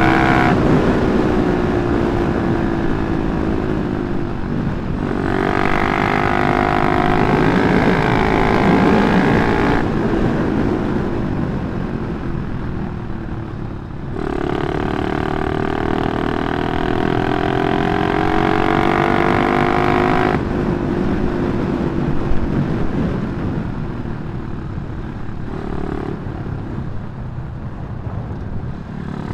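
Yamaha Jupiter MX single-cylinder four-stroke, bored out to 177cc and breathing through a CLD C7 aftermarket exhaust, running under way. Its note climbs steadily through each gear, then drops away when the throttle is shut about ten and twenty seconds in. A low wind rumble runs underneath.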